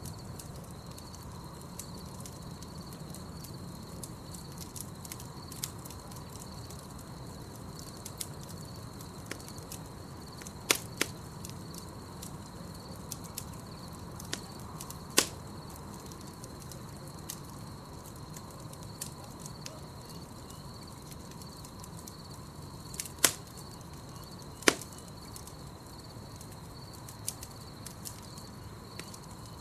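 Campfire burning with a steady low rumble and scattered sharp wood pops, a handful of them loud, two close together late on. Night insects trill steadily and high-pitched behind the fire.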